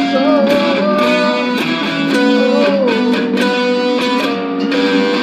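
Band playing an instrumental passage: strummed guitars under a lead electric guitar line that bends and slides in pitch.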